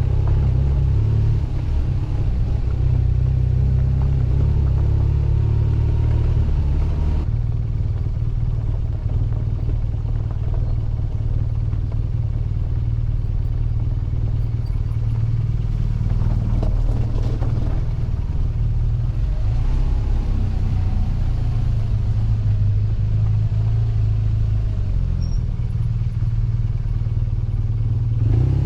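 BMW R1200GS boxer-twin motorcycle engine running steadily while riding, a continuous low drone. The sound shifts abruptly about seven seconds in.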